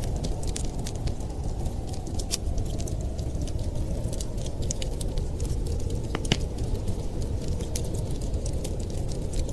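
Fireplace crackling: irregular sharp snaps and pops from burning wood, one louder pop about six seconds in, over a steady low rumble.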